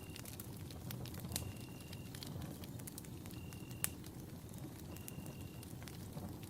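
Campfire burning: wood crackling and popping over a low rumble of flames, with one sharper pop about four seconds in. A short, high, steady note repeats about every second and a half in the background.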